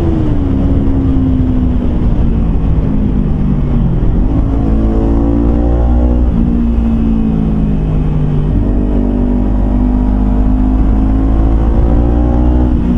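Kawasaki Versys-X 250's parallel-twin engine through a Norifumi slip-on exhaust, ridden under acceleration. The pitch drops and climbs again several times as it changes gear, rising steadily near the end.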